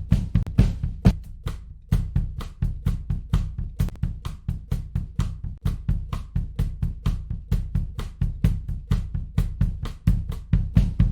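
Recorded drum kit playing a steady, busy beat of kick, snare and hi-hat, run through a tape emulation plugin.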